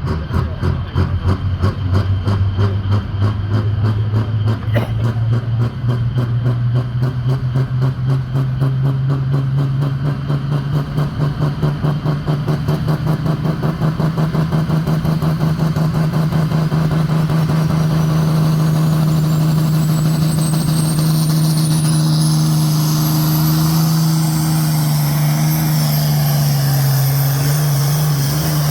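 A pulling tractor's engine running hard under load during a pull, its note climbing slowly and steadily. A high whistle rises over it from a little past halfway.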